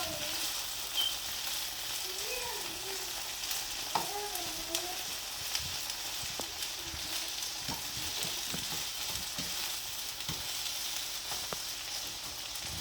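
Cicadas and onion frying in hot oil in a pan: a steady sizzle, with scattered sharp clicks and taps through it.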